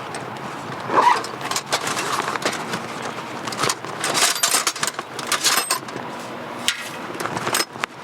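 Camping gear being handled: a run of small clicks, knocks and metal clinks with rustling, the loudest knock about a second in and a cluster of clinks with a brief high ring around the middle.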